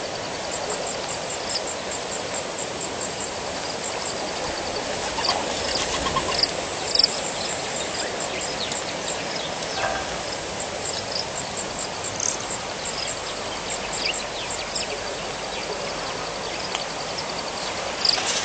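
Steady hiss of rain with insects chirping in fast, regular series and occasional bird calls over it.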